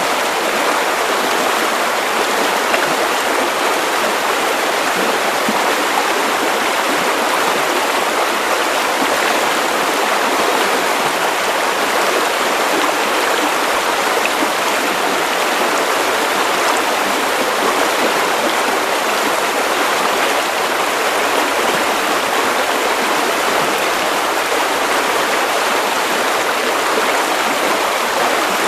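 Steady white noise: an even, unchanging hiss with little low rumble, with no rises, drops or separate events.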